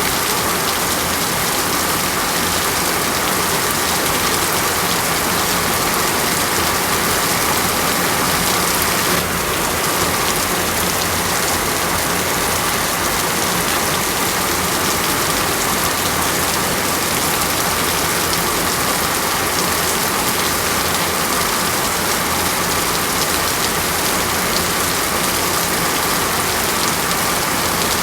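Steady rain falling on a hard surface, a dense, even hiss that holds level throughout.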